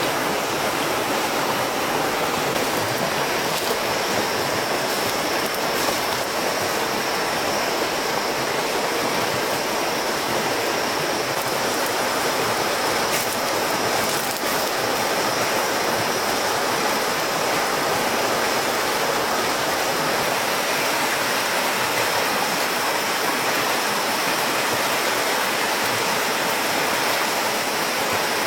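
Steady rushing of running water, like a stream, unchanging throughout, with a thin high steady tone above it from a few seconds in.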